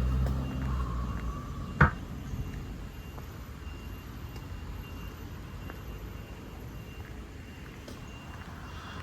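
A motor vehicle's engine running close by, its low rumble fading out within the first second or so, then a single sharp knock about two seconds in, followed by steady low traffic noise.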